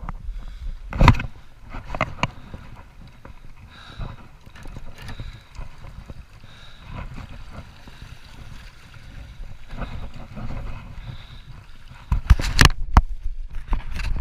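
Small boat on a river: a low rumble of water and air around the hull, with sharp knocks a couple of times early on and a louder cluster of knocks near the end.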